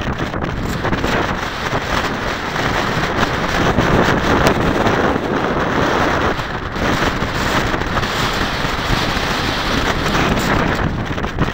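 Strong 20-30 mph wind buffeting the microphone: a loud, steady rush of wind noise that swells and eases with the gusts, dipping briefly about two-thirds of the way through.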